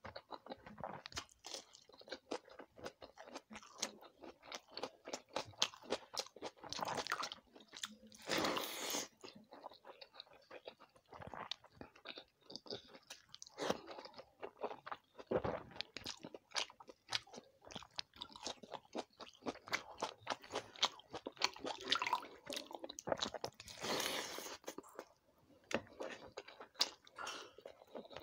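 Close-miked eating: mouthfuls of fried vegetables and water-soaked rice (pakhala bhata) being chewed and crunched, in a dense run of irregular crunchy and wet mouth clicks. Now and then there is a longer, noisier chewing sound.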